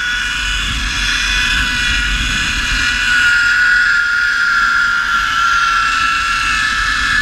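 Zipline trolley pulleys running along the steel cable, a steady multi-tone whine that drifts slowly lower, with wind rumbling on the microphone.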